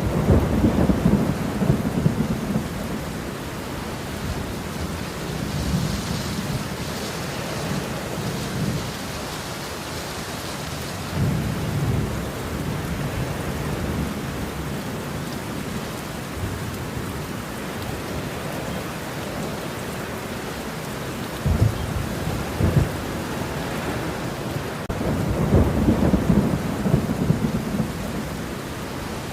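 Steady heavy rain in a thunderstorm, with thunder rolling several times: a rumble at the start, another around the middle, two short sharp cracks past the twenty-second mark, and a longer rumble near the end.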